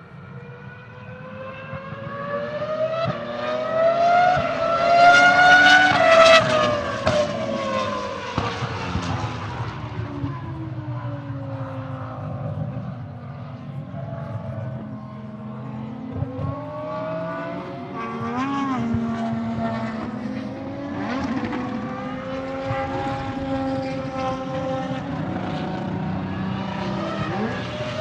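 Renault R25's RS25 3.0-litre V10 Formula 1 engine at high revs: it grows louder and rises in pitch to a peak about six seconds in, then drops in pitch and fades as the car passes. It is then heard further off with its revs rising and falling, and grows loud again near the end.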